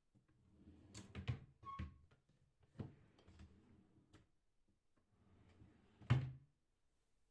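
A few light knocks and clatters of objects being handled and set down, with a brief faint beep a little under two seconds in and the loudest knock about six seconds in.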